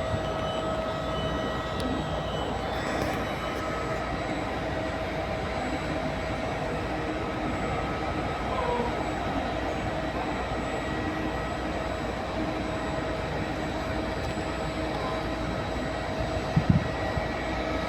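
Train in the station: a steady rumble with a constant high whine over it, with a few short knocks near the end.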